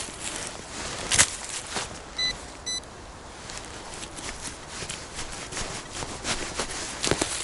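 Steps crunching and crackling through forest leaf litter and twigs, with a metal detector giving two short high beeps half a second apart a couple of seconds in, its signal on a metal target.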